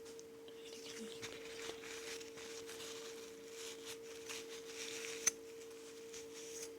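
Crinkling and rustling of paper or plastic being handled, with small clicks and one sharp click about five seconds in, over a steady low electrical hum.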